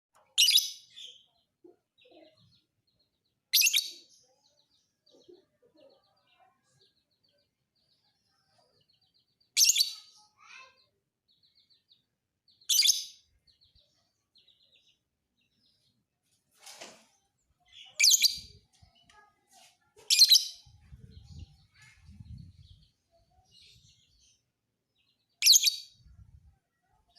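Lovebird giving short, shrill chirping calls, about seven loud ones at irregular gaps of a few seconds, with faint soft twittering in between.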